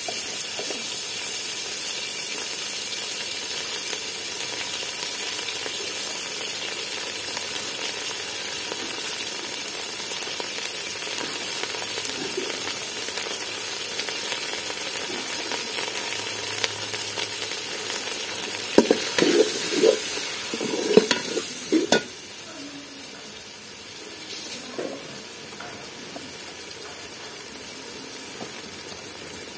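Beef curry frying in an aluminium pot with a steady sizzling hiss. About two-thirds of the way through comes a short run of clattering knocks, and after them the sizzle is a little quieter.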